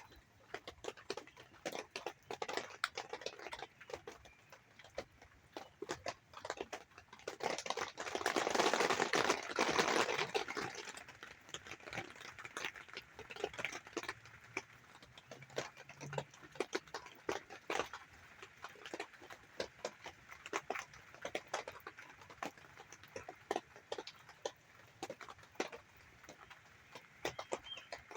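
Rain and a pair of ducks: a steady scatter of short ticks and splashy clicks. About eight seconds in comes a louder rush of noise lasting about three seconds.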